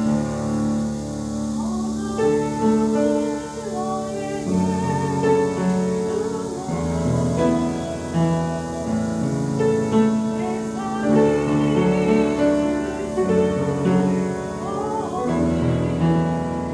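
Piano playing slow sustained chords, with a woman's voice singing a melody over it.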